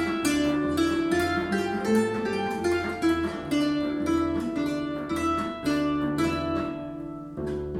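Instrumental music on a plucked string instrument: quick runs of plucked notes over a repeating bass line. It eases off briefly near the end, then strong notes come back in.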